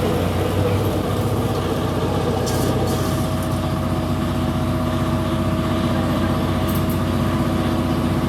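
A heavy metal lathe running steadily, a mechanical hum with a steady whine, with two brief high hisses.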